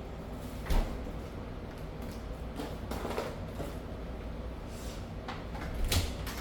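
Two sharp knocks about five seconds apart, with a few softer clicks between, over a steady low hum.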